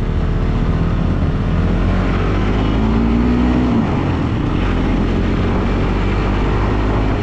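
Motorcycle engine running steadily while riding, mixed with wind and road noise on the microphone. A short steady tone sounds about three seconds in.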